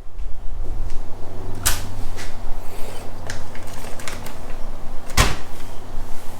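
Hard knocks and light clatter over a steady low hum, with two sharp impacts: one about a second and a half in, and a louder one about five seconds in.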